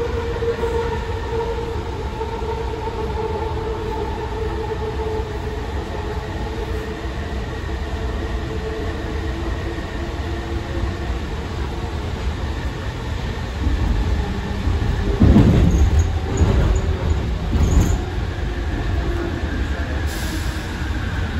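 AirTrain JFK automated people-mover car running on its elevated steel guideway, heard from inside: a steady low rumble with a faint steady whine. About three-quarters of the way through the rumble grows louder and rattles, with a few brief high squeaks, as the train runs into the station.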